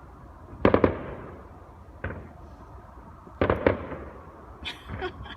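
Fireworks bursting: two clusters of sharp double bangs about three seconds apart, a smaller bang between them, and a brief crackle of quick pops near the end.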